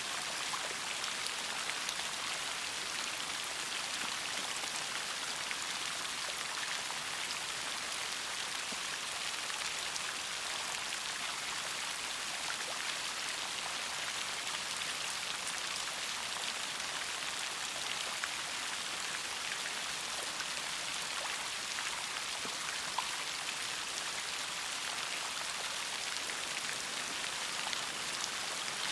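Steady rain, a dense hiss of many fine raindrop patters hitting a surface.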